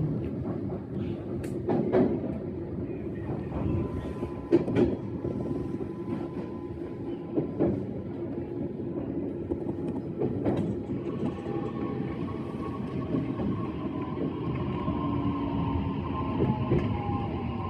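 E131-series electric train running, heard from the driver's cab: a steady rail rumble with scattered clicks of the wheels over rail joints. From about eleven seconds in, an electric whine comes in and slides down in pitch.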